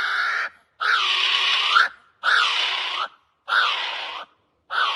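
Kiwi calling: a run of loud, shrill, harsh cries, each about a second long with a pitch that bends up and down, repeated with short gaps between them.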